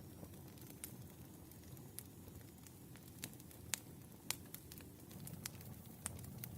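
Wood fire crackling: sharp pops at irregular intervals over a low, steady rumble of burning logs, with the two loudest pops near the middle.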